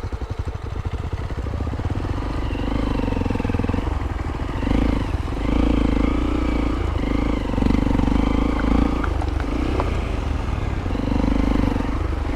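Motorcycle engine running with a fast thudding beat at first, then revved hard in about six separate bursts of throttle, each lasting roughly a second.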